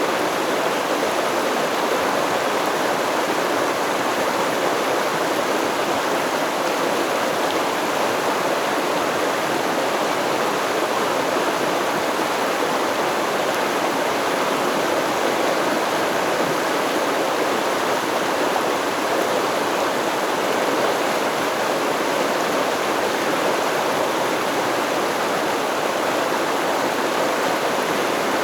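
Stream water running and babbling over rocks, a steady rushing wash with no change.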